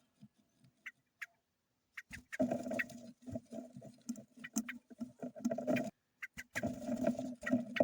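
Kept birds calling and moving about, with many small clicks and scratches. It comes in busy bursts about two seconds in and again near the end, after a quiet opening.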